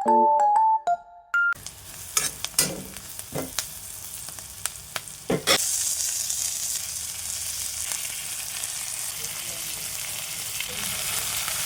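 A short chiming music tune ends about a second and a half in; then food sizzles in hot oil in a pan, with a few sharp clicks and knocks of a utensil, and the sizzling turns louder and steady from about five and a half seconds in.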